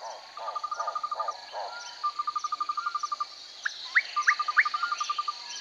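Songbirds singing. Three bouts of a rapid, even trill are heard, with a lower call repeated about three times a second over the first second and a half. A few quick rising whistles come near the end, over a thin steady high tone.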